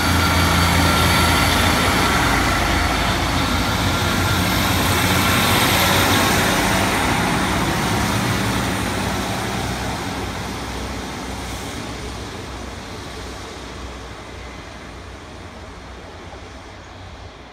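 A train passing with a steady engine hum and high-pitched whine, loud at first and then fading away over about ten seconds.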